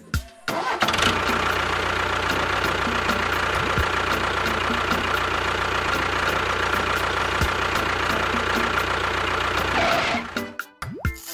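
Engine running steadily with a constant low hum. It starts about a second in and stops shortly before the end.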